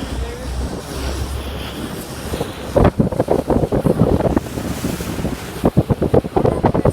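Wind buffeting the microphone on a boat at sea, over the rush of water and a steady low rumble; about three seconds in the buffeting turns choppy and gusty.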